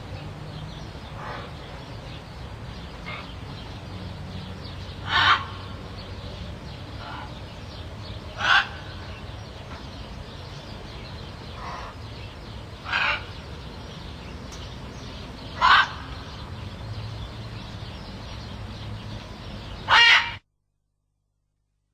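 A bird calling in short, loud single calls every few seconds, with fainter calls from further off in between, over a steady background hiss. The recording cuts off abruptly near the end.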